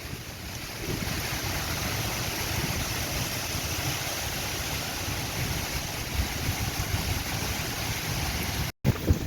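Steady hiss of heavy stormy rain, with wind buffeting the microphone in low rumbles. The sound cuts out for an instant near the end, followed by a couple of louder wind thumps.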